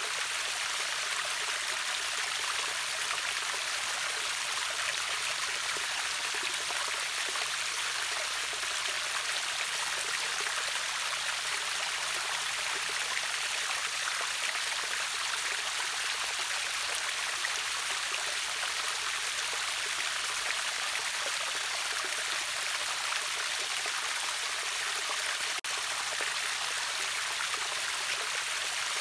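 River water rushing over a waterfall: a steady, even hiss with no break.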